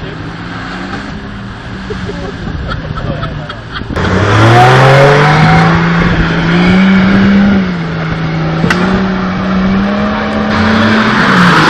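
Off-road 4x4's engine revving under load as it pushes through deep mud. It gets suddenly louder about four seconds in, with the revs climbing steeply, then holds high with small rises and dips.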